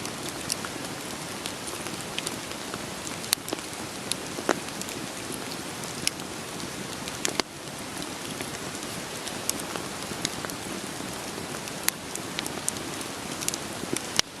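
Steady rain falling with a wood fire crackling over it: an even hiss of rain broken by sharp, irregular pops from burning logs. The level dips briefly about halfway through.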